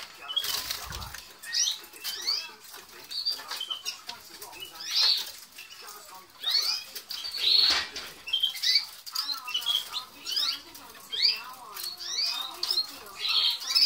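Red factor canary cocks chirping and calling: many short rising and falling chirps from several birds, with wing flutters and scrabbling in the cages.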